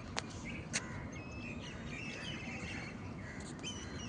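Small birds chirping and trilling, several short calls and rapid trilled phrases overlapping, over a steady low rumble. Two sharp clicks come in the first second.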